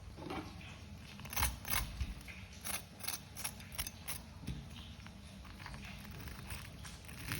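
Kitchen utensils clicking and knocking: about ten sharp taps and clatters in quick, uneven succession over a few seconds, then fewer, over a low steady hum.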